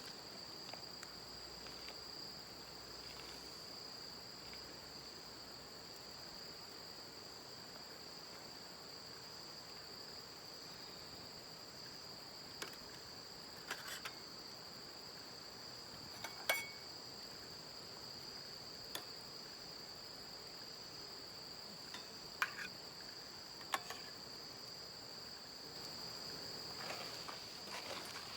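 Insects chirring steadily in a thin high-pitched band, with a few faint scattered clicks and knocks, the loudest about halfway through.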